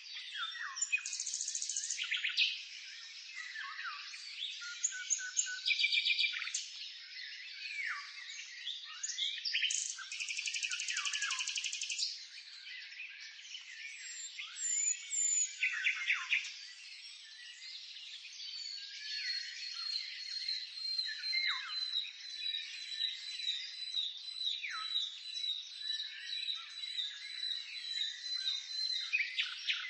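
Several songbirds singing and calling at once, a dense mix of chirps, trills, quick rattles and short falling whistles. Through the second half one bird keeps up a long, even series of high repeated notes.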